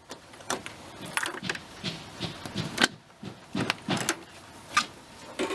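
A bunch of keys jangling, with irregular small clicks and knocks from handling them, as a lock is opened.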